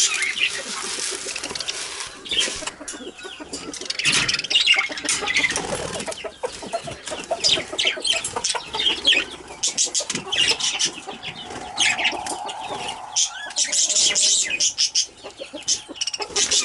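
Pet budgerigars chattering and chirping, with many short, quick calls.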